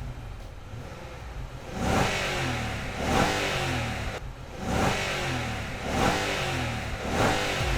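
Nissan Y62 Patrol's 5.6-litre V8 on its stock exhaust, blipped about five times in a row. Each rev rises sharply and then falls back toward idle.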